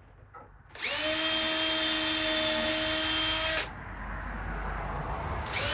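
Power drill run in bursts: it starts with a steady whine about three-quarters of a second in, drops to a low rumble around three and a half seconds, and speeds back up to full whine near the end.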